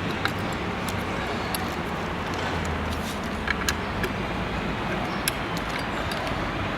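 Scattered light metallic clicks of an Allen key tightening the truck mounting screws on a streetboard, over a steady background rush.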